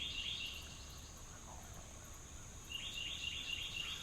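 A wild songbird singing two quick runs of rapidly repeated chirps, one at the start and one near the end, over a steady high-pitched insect buzz.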